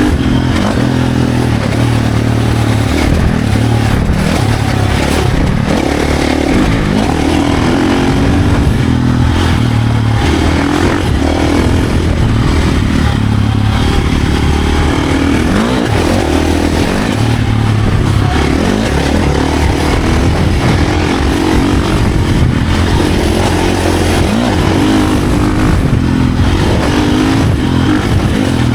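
Dirt bike engine under hard riding, its pitch rising and falling again and again as the throttle is opened and shut and the gears change.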